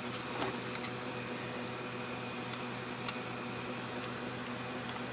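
A steady low electrical hum, with a faint click about half a second in and another about three seconds in.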